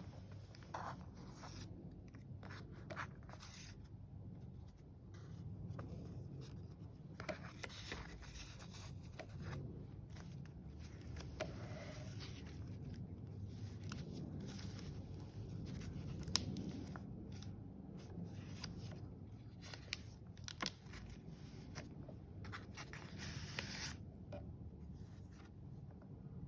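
Paper pages of a handmade junk journal being turned and handled: soft rustles, crinkles and light taps scattered throughout, over a faint low hum.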